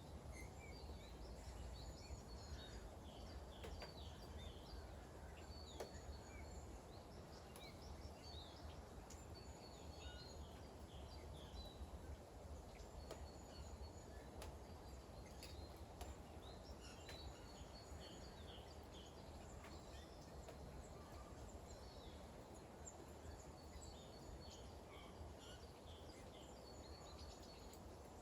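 Small birds chirping in short, high, repeated calls over a faint, steady outdoor background of light rain. A low rumble runs underneath, and a few sharp ticks of dripping water come through.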